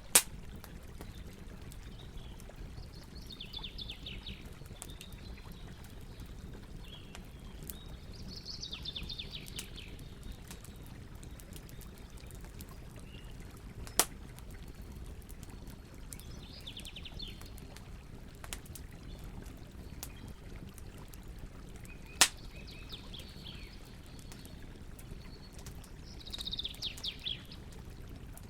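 Campfire burning: a low steady rumble with scattered crackles and a few sharp pops. A bird gives a short high trill five times over it.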